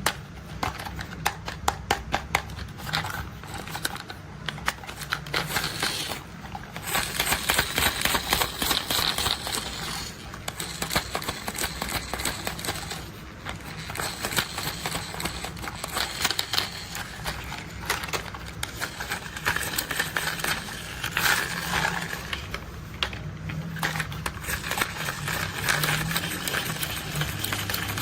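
Plastic toy construction vehicles being handled and played with: dense runs of rapid clicking and rattling, with short pauses now and then.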